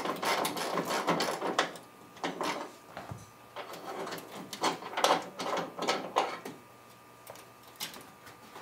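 Irregular clunks, knocks and scrapes of a car's steel hood being handled as it is freed from its hinges and lifted off. The sounds come thick at first, then as a few scattered knocks.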